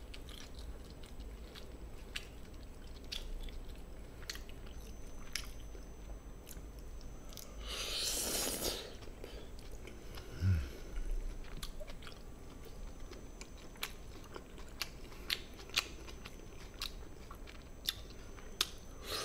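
Close-miked chewing of gochujang-marinated chicken, with many small wet clicks of the mouth. A short breathy rush of air comes about eight seconds in.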